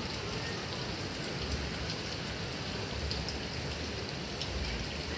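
Heavy rain falling steadily: an even hiss with a few sharp drop ticks.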